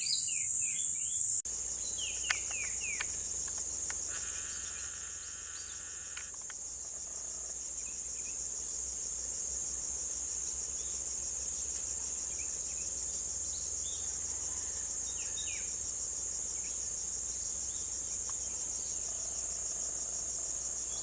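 A steady, high-pitched drone of insects, crickets or similar, with short bird chirps over it: a quick run of falling notes near the start and a few scattered chirps later on.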